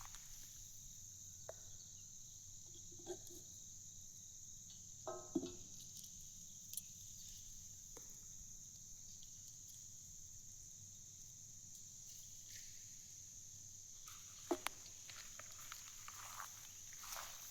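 A steady high-pitched chorus of crickets or other insects, with a few faint scattered clicks and knocks, the clearest about five seconds in and again near the end.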